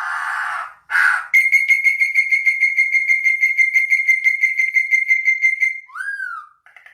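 Bird calls. Two short harsh, hissing notes come first. Then a long, fast trill on one high, steady pitch lasts about four and a half seconds, followed by a short curved whistled note and a buzzy trill starting near the end.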